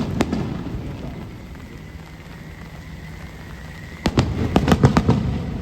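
Fireworks shells bursting in a sharp crackling cluster about four seconds in, with booming echo, over steady rain; a faint thin whistle sounds in the lull before the cluster.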